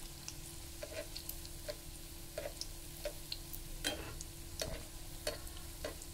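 Breaded chicken nuggets frying in hot oil in a nonstick pan: a steady sizzle with frequent sharp pops and crackles, while a metal spatula and tongs turn the pieces.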